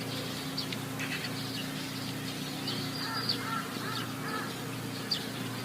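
Several birds calling: short high chirps throughout, with a run of short arched calls about three to four and a half seconds in, over a steady low hum.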